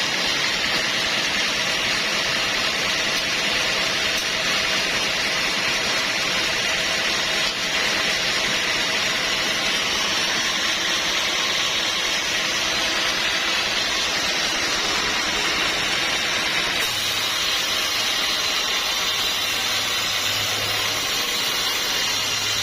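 Sawmill machinery running steadily, a loud even mechanical noise with a few steady tones. About 17 seconds in the sound shifts and a low hum comes in.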